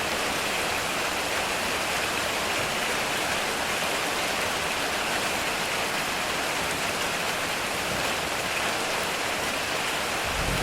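Heavy rain pouring steadily on a metal roof, an even hiss with no letup.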